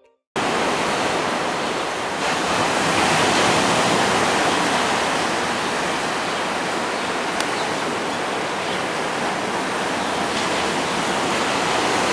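Ocean surf breaking on a beach: a steady, loud rush of waves that cuts in abruptly just after the start.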